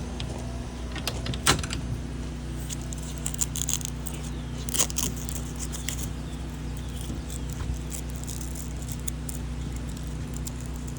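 Scattered metallic clicks and rattles of hardware being handled over a steady low hum, with a sharp click about a second and a half in and another near five seconds.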